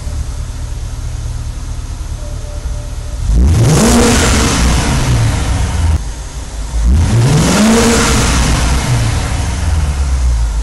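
BMW 650i V8 through a MagnaFlow aftermarket exhaust, idling and then revved twice. Each rev climbs sharply and falls back to idle.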